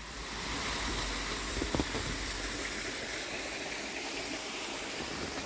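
Small garden waterfall splashing steadily, a constant hiss of falling water, with a couple of faint knocks a little under two seconds in.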